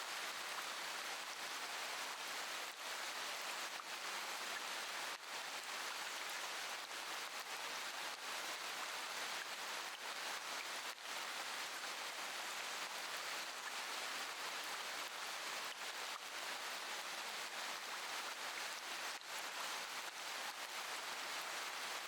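Steady rain falling, an even hiss of drops without pauses or changes.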